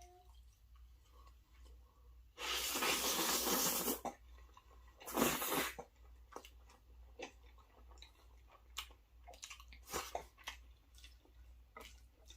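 Close-miked chewing of a mouthful of creamy Alfredo pasta with chicken, bacon and shrimp: soft wet mouth clicks throughout. About two and a half seconds in comes a loud airy rush lasting about a second and a half, and a shorter one a second later.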